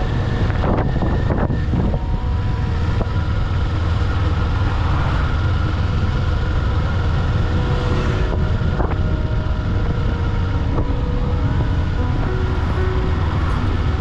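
Kawasaki Eliminator 500's parallel-twin engine running steadily while riding, with wind rushing over the microphone. Background music plays with short notes that step in pitch.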